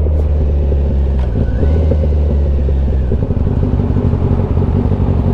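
Kawasaki ZX-10R's inline-four engine running at low, steady revs, with a brief change in pitch about a second in.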